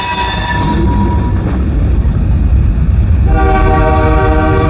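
Freight train gondola cars rolling past at close range with a steady low rumble. A stack of high ringing tones fades out about a second in and returns a little past three seconds.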